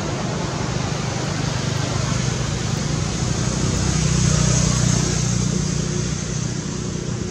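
Motor vehicle engine passing, a steady low hum with road noise that swells about four seconds in and then fades.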